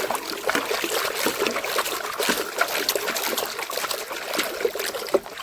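Water splashing and trickling as a small muddy toy backhoe loader is dunked and rubbed clean by hand in a tub of water: a continuous run of small splashes and drips.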